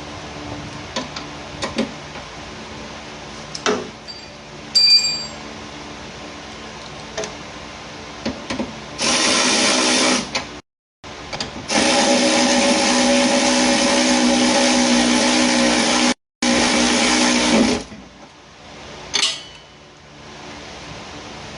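Electric power tool motor running at a steady, even pitch in two long runs, about a second and a half and then about six seconds. Before it there are scattered light clicks and a short high beep.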